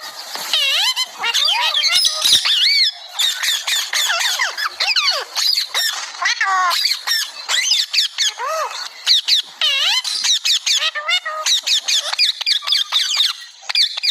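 Green parrot chattering non-stop: a rapid, unbroken stream of squawks and high gliding whistles and chirps.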